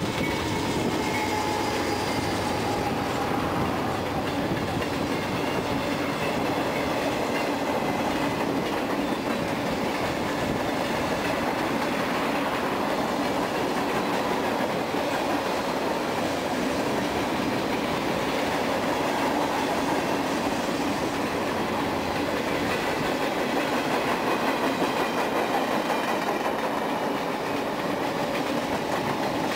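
A Union Pacific train rolling past at steady speed, its cars clattering rhythmically over the rail joints, with a faint wheel whine near the start.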